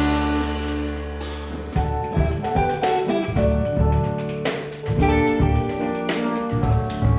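Jazz band of piano, saxophone, guitar, bass and drums playing live. A low note is held for about the first two seconds, then the band plays short accented chords punctuated by drum and cymbal hits.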